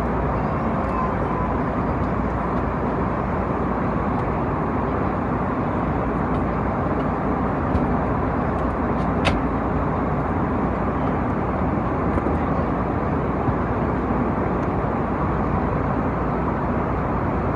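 Steady cabin roar inside an Airbus A321neo airliner in its climb: engine and airflow noise. A single short click sounds about nine seconds in.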